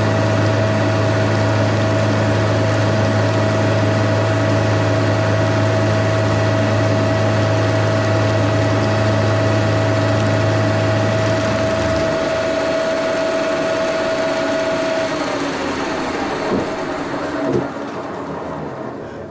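Milling machine spindle running at 1550 rpm, with a steady tone and a deep hum, as a 3/4-inch four-flute high-speed-steel roughing end mill takes a roughing cut. The deep hum stops about two-thirds of the way through. The steady tone ends shortly after and the machine winds down, with a few knocks near the end.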